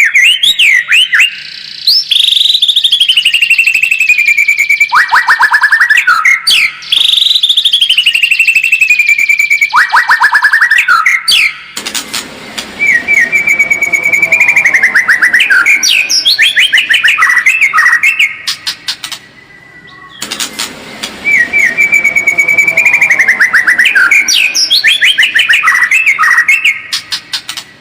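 White-rumped shama singing a loud, bold lure song of fast trills, rapid repeated notes and falling whistled sweeps, the same phrases coming round again and again with a short break about two-thirds through.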